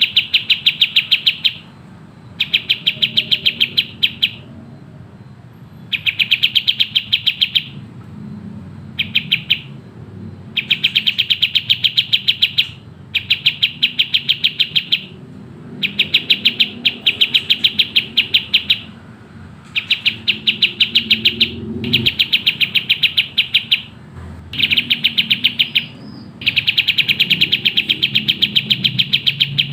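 Kapas tembak songbird singing its fast, tightly packed song in bursts of rapidly repeated notes. Each burst lasts one to three seconds, with short pauses between.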